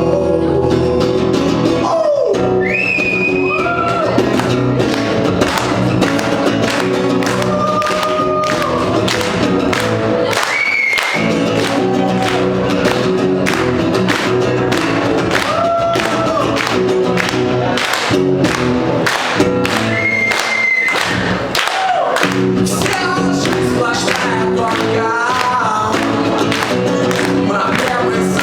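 Live acoustic song: a singing voice holding long notes over a steadily strummed acoustic guitar.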